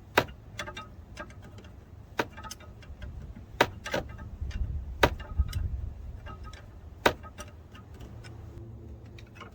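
Irregular sharp metallic clicks and clinks of hand tools and parts being handled while working in an engine bay, about half a dozen loud ones a second or two apart, over a low steady rumble.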